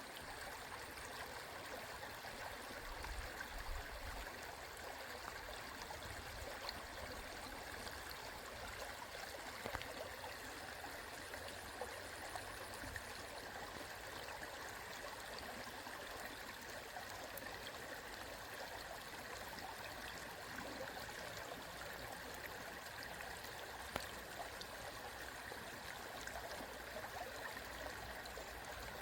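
Mountain stream flowing over rocks: a steady rushing and gurgling of water.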